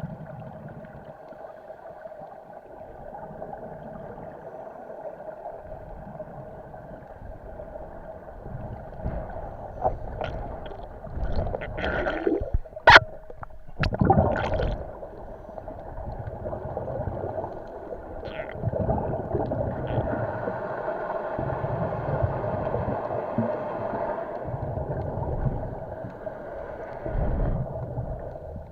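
Underwater sound of a scuba diver's exhaled bubbles gurgling from the regulator in recurring surges, over a steady hum, with a few sharp clatters about halfway through.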